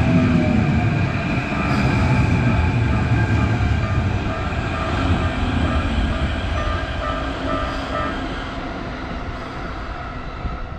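Keikyu electric train passing over a level crossing at speed, a loud rumble of wheels on rails that fades over the last few seconds, with the crossing bell ringing over it.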